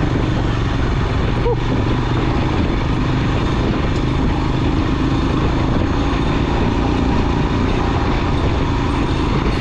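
Motorcycle engine running steadily while riding, with a steady rush of wind and road noise.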